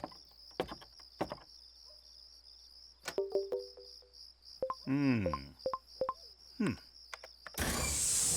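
Cartoon repair sound effects: tool clicks and knocks, short electronic beeps and a wobbling tone that sweeps down, then a loud hiss near the end. A steady cricket-like chirping runs underneath.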